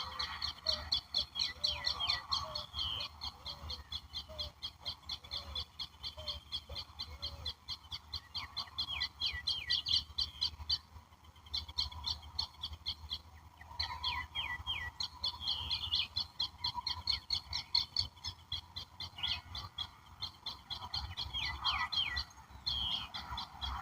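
Several wild birds singing together. One keeps up long runs of fast, high repeated notes, broken by a few short pauses, with falling whistled notes mixed in. For the first several seconds a lower call repeats about twice a second.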